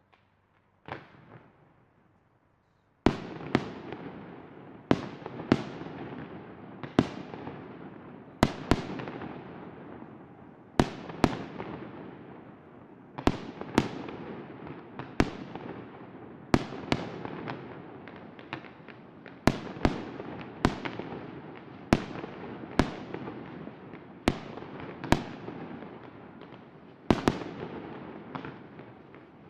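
Fireworks display: aerial shells bursting with sharp bangs. One bang comes about a second in, then from about three seconds a steady run follows, roughly one every second, with a continuous rumble and crackle between.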